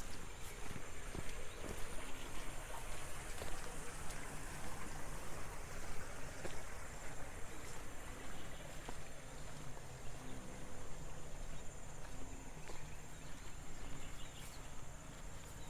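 Water running and trickling in a rice-terrace irrigation channel, a continuous rushing sound with a thin, steady high tone above it.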